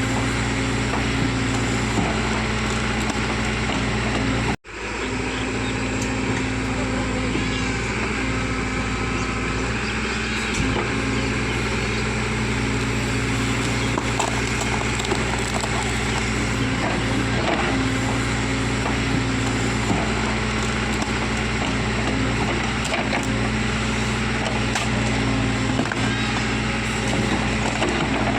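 Diesel engine of a heavy earth-moving machine running steadily under work in mud, with a low, even engine note. The sound cuts out abruptly for an instant about four and a half seconds in.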